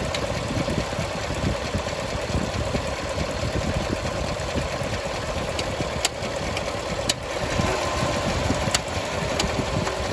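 Chevrolet Silverado 6.2-litre V8 idling warm, with sharp ticks coming unevenly, roughly once a second, over the steady running. The ticking appeared after an AFM lifter replacement; the owner puts it down to head gaskets that were defective or installed backwards, likely restricting coolant.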